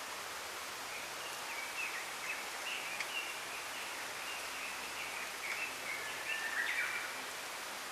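Small songbirds chirping in a run of short, high notes, busiest near the end, over a steady hiss of wind rustling the bamboo leaves.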